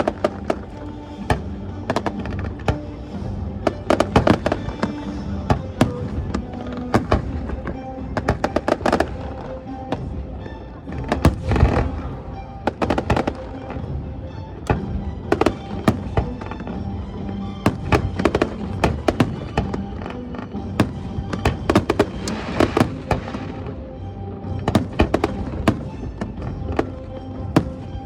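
Fireworks bursting in a dense, irregular run of bangs and crackles, with music playing underneath.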